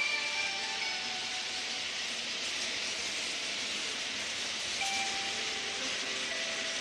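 Toy train set running: a steady hiss, with a few faint music notes coming in near the end.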